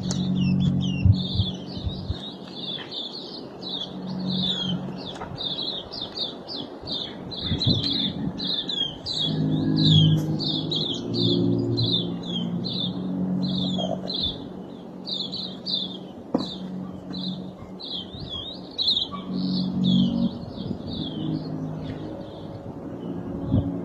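Bird chirping, a long run of short high notes repeated about two to three times a second, over an intermittent low hum.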